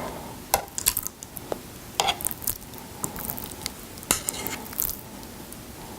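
Utensils clicking and scraping against a dish, with soft wet squishing as pieces of raw salmon are picked up; several sharp clicks, a few close together about four seconds in.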